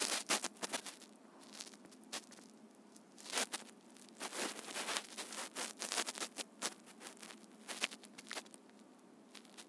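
A phone being handled close to its own microphone: irregular soft clicks and rustles, a few a second, with a louder cluster about three and a half seconds in.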